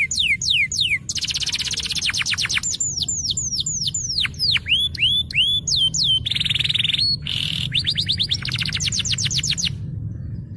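Domestic canary singing a fast, varied song: runs of repeated downward-sweeping whistles alternate with rapid buzzy trills, and the song breaks off shortly before the end. A steady low hum lies underneath.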